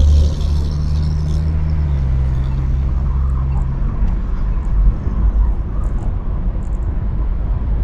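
BMW 335i's N55 turbocharged inline-six exhaust, picked up close by an exhaust microphone while driving: a steady low exhaust drone whose pitch drops a step about two seconds in, then settles into a lower rumble from about four seconds in.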